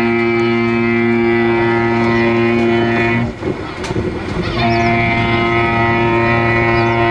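Ship's-horn sound effect played through loudspeakers: a steady deep chord of tones, broken about three seconds in by a second or so of rushing noise, then sounding again.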